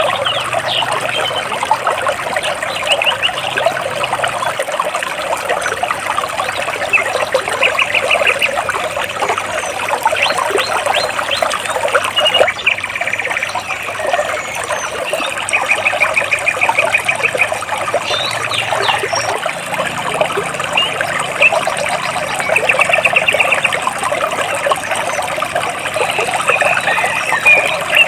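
Stream water babbling and trickling steadily over and between large rocks. Birds chirp over it in short, rapid trills that recur several times.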